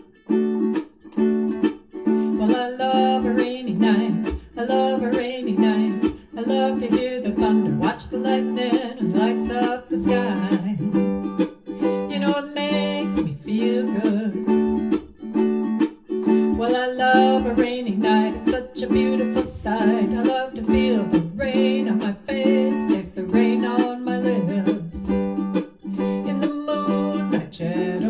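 Tenor KoAloha ukulele strummed in a steady rhythm, with a voice singing a melody over it.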